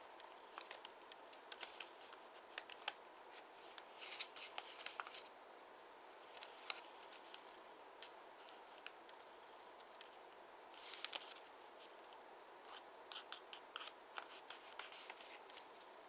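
A square of origami paper being folded and creased by hand: scattered crisp crackles, clicks and short rustles over a faint steady hiss.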